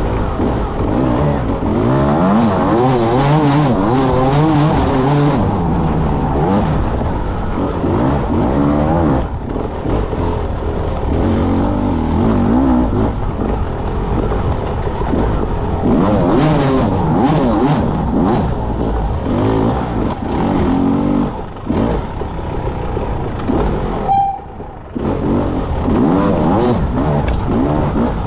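Enduro motorcycle engine revving up and down hard as the throttle is worked, the pitch rising and falling every second or so. Near the end the engine briefly drops off as the throttle closes, then picks up again.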